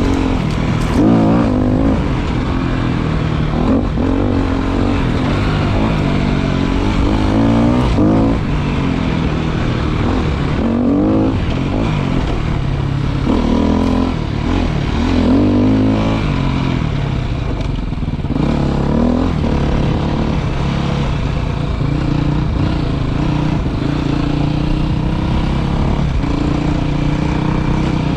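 Motorcycle engine under way, its pitch rising again and again as the rider accelerates and eases off, then running more steadily near the end.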